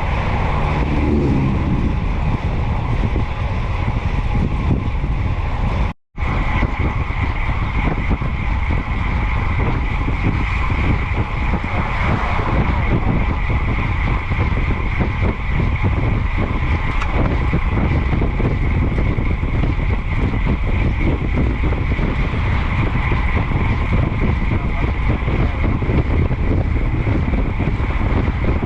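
Wind rushing over the microphone with bicycle tyre and road noise while riding at about 28 mph: a loud, steady rush with a steady high whine over it. The sound cuts out completely for a split second about six seconds in.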